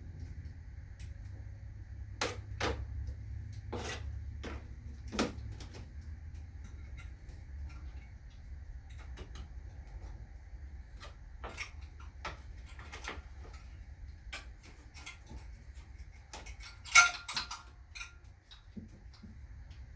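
Scattered clicks and knocks from handling the delivered engine and its packaging, with one louder clatter near the end, over a steady low rumble.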